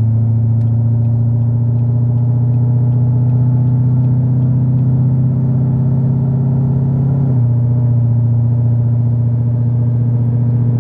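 Car engine running at a steady speed with a loud, even drone. The pitch steps down a little about seven seconds in, then glides lower near the end as the engine slows.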